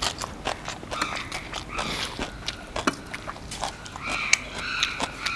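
A person chewing crunchy food close to the microphone: irregular crisp crunches and wet mouth smacks.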